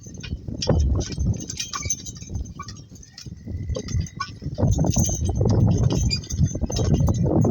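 Donkey-drawn work cart rolling along: a low rumble from the wheels and running gear with many short clinks and rattles from the harness and cart, growing louder about halfway through.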